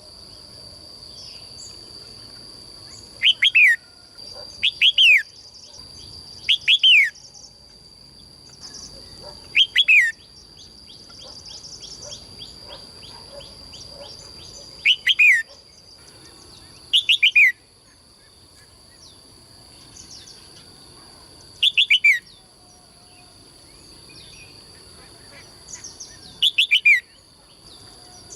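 A songbird singing loud, short phrases of two to four quick falling notes, repeated every few seconds, with a softer fast trill in the middle, over a steady high-pitched tone.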